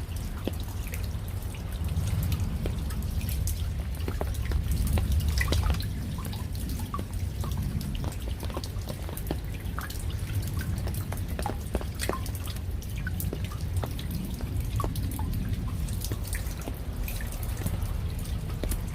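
Raindrops falling and dripping at an irregular pace, each drop a sharp little tap, over a steady low rumble.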